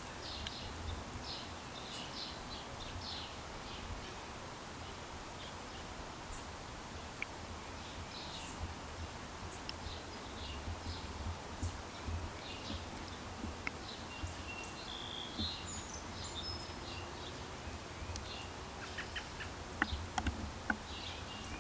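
Outdoor ambience with faint, scattered high bird chirps over a low rumble, and a few light clicks near the end.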